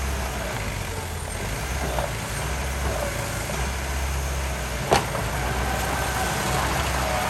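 Heavy diesel engine of construction machinery running steadily, with a single sharp clank about five seconds in.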